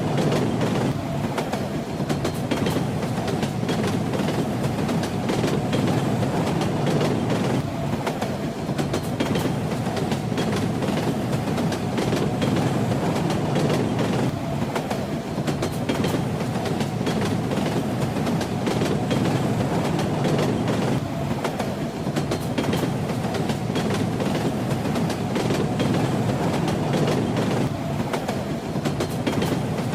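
Steady rumble of a moving train with the clickety-clack of its wheels over rail joints, heard from inside a carriage.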